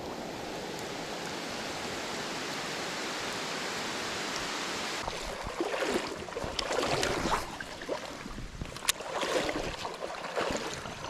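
River water running with a steady rush. From about halfway, irregular sloshing splashes in the water come and go over it.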